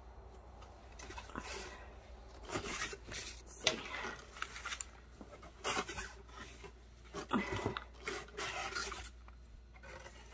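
Sheer fabric mesh netting bags rustling and rubbing as they are handled and spread out, a run of uneven swishes with a couple of sharper clicks.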